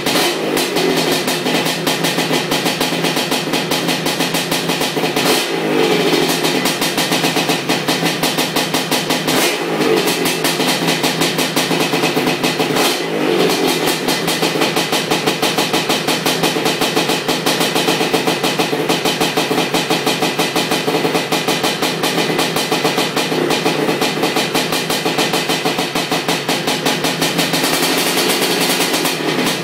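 ESR 310 big-bore two-stroke engine in a Honda 250R trike running with a rapid, crackly two-stroke pulse on its first heat cycle after the build. Its pitch dips and picks up again briefly three times, about 5, 9 and 13 seconds in.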